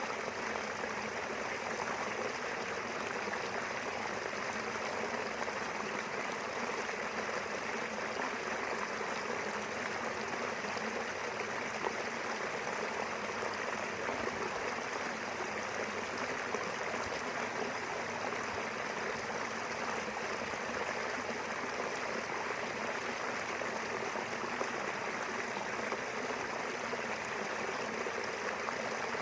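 Small river flowing steadily, a continuous rushing and babbling of running water.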